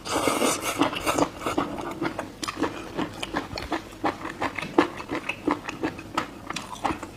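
A person chewing and biting spicy cuttlefish close to the microphone: a steady run of short smacking clicks, about three a second.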